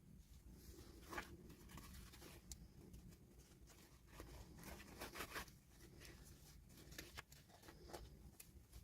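Faint, intermittent rustling, scratching and light clicks of toy packaging being handled and opened by hand, busiest near the middle.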